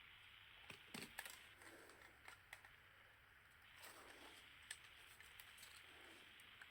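Faint scattered clicks and light scrapes from handling the parts of a disassembled Nikon D5600 camera, over near-silent room tone.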